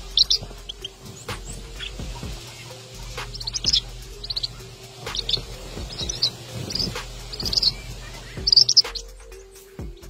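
Red-whiskered bulbul giving short, high chirping calls in scattered bursts, with a louder cluster near the end.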